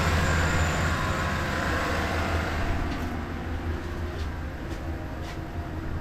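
A vehicle engine running steadily during a jump-start. It is loudest in the first couple of seconds and then settles, with a few light clicks in the second half.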